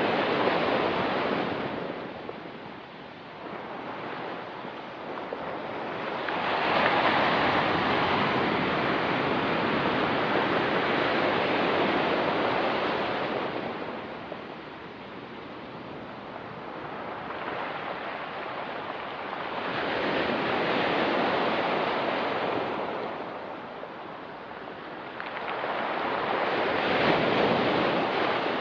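Ocean waves breaking on the shore: a wash of surf that swells and ebbs, with a new wave coming in about every six to seven seconds.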